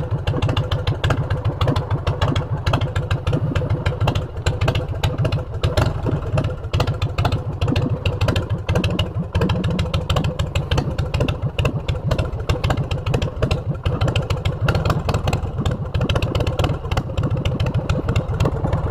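Motorcycle engine with aftermarket exhaust pipes running loud, with a rapid, uneven pulsing exhaust note throughout.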